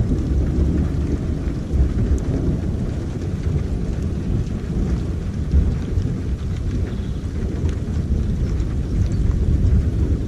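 Rain falling steadily through a long, continuous low rumble of thunder, with faint scattered drop ticks over it.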